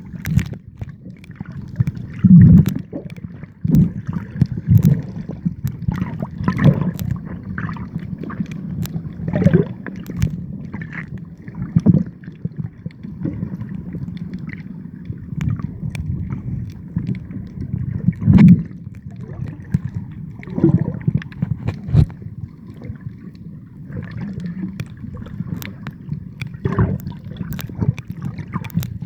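Water sloshing and gurgling close to the microphone, a muffled low wash broken by irregular sharp splashes and knocks.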